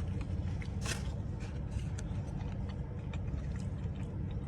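Car engine idling, heard as a steady low rumble inside the cabin, with a few short clicks over it.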